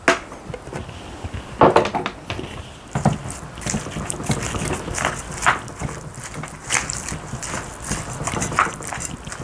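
A spoon scraping and knocking against a bowl while bibimbap rice is mixed with sesame oil, with irregular clinks every second or so over a soft squelching of rice.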